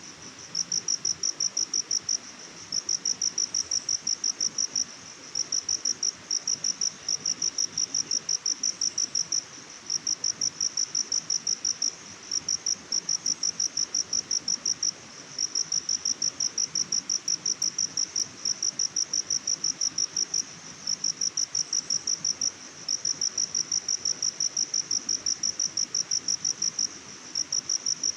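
High-pitched insect chirping: trains of rapid, evenly spaced pulses lasting a second or two, separated by short pauses, over a faint steady hiss.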